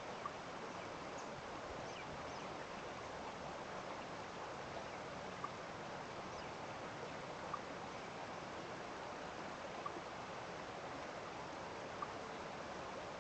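Steady rush of running water after rain, with a short high plink about every two seconds and a few faint high chirps in the first couple of seconds.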